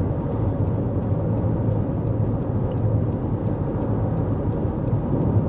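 Steady road noise inside a 2024 Toyota Corolla Cross as it drives: low tyre rumble and drivetrain hum.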